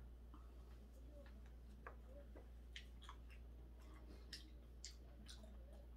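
Near silence: a person faintly chewing, with a few soft, scattered mouth clicks over a low steady hum.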